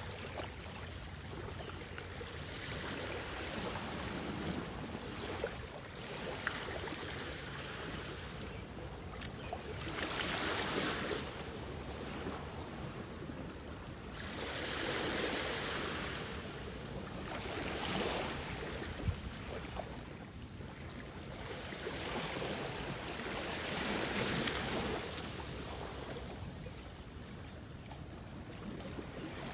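Soft ocean waves breaking and washing onto the shore. The wash swells up and fades back roughly every five seconds.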